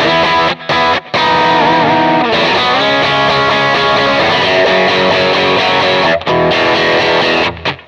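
Overdriven electric guitar played through a Kemper profile of a 1966 Vox AC30 with its channels jumpered, mixing chords and lead lines with string bends. The playing breaks off briefly a few times.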